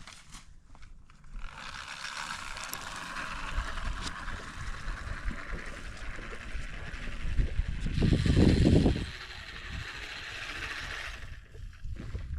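Seed spreader running, a steady gear whir with seed scattering. It starts about a second and a half in and stops suddenly about eleven seconds in, with a louder low rumble a little before the end.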